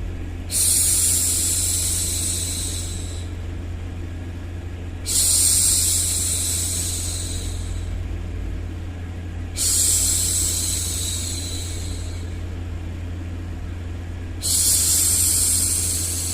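A woman's voice shushing 'shhh' four times, each hush starting sharply and fading away, about every four to five seconds, over a steady low background rumble of white noise.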